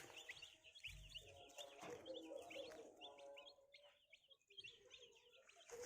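Day-old white broiler chicks peeping: many short, high chirps overlapping one another, faint throughout.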